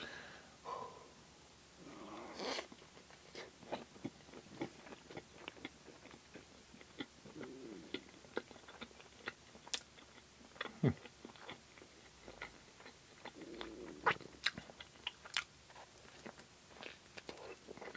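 A person biting into and chewing fried bread sticks topped with whipped cream, with many short mouth clicks throughout.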